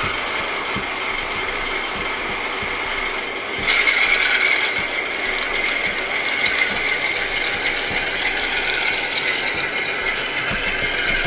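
Model Class 47 diesel locomotive's LokSound V5 sound decoder playing its simulated diesel engine through the model's small speaker as the locomotive moves off, over the clicking and whirring of the model's motor and gears. The engine sound steps up in loudness about four seconds in.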